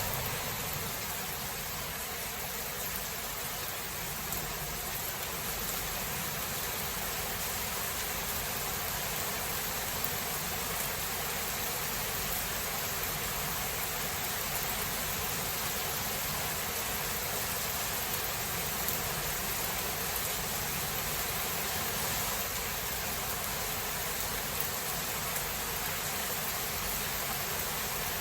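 Steady, even hiss of rain in a thunderstorm, with no clear thunderclap.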